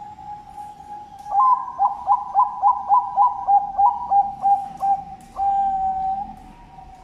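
Zebra dove (perkutut bangkok) cooing: a soft held coo, then a quick run of about a dozen short coos at roughly three a second, ending in one longer drawn-out note.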